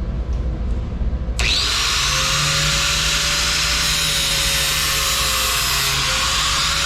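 Electric grinder of a lawn mower blade sharpening jig switched on about a second and a half in, then running steadily at speed with a high whine and hiss. Its pitch dips briefly near the end.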